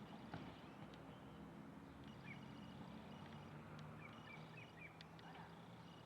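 Faint, short bird chirps, a few at a time about two seconds in and again past the middle, over a low steady hum.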